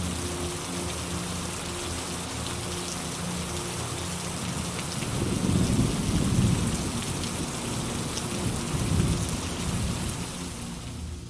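Steady rain with low rolling thunder that swells about five seconds in and again near nine seconds, then the sound fades out.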